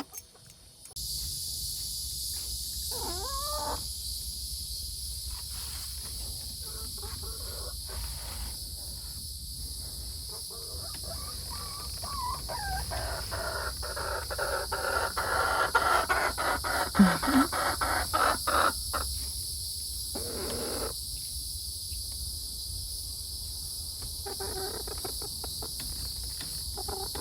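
Crickets chirring steadily, starting about a second in, with chickens in the coop making a few soft calls and then a louder flurry of squawks and scuffling around the middle as they settle for the night.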